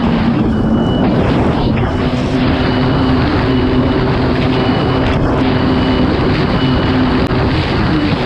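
Kawasaki STX 160 jet ski's four-cylinder four-stroke engine running steadily at speed, with rushing water and wind noise under it. A short high beep repeats about once a second over the engine.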